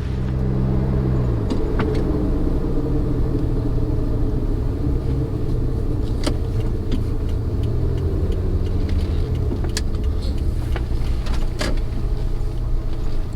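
Suzuki Jimny JB23W's 660 cc turbocharged three-cylinder engine running as the car is driven. The engine note falls and rises as its speed changes, with scattered sharp clicks and knocks.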